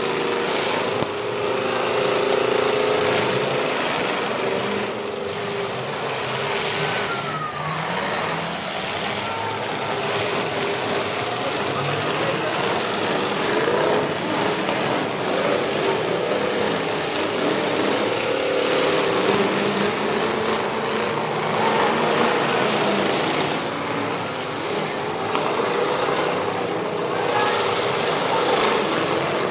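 Demolition derby cars' engines running and revving as the battered cars push and drive through the mud, rising and falling in pitch, over a steady crowd murmur.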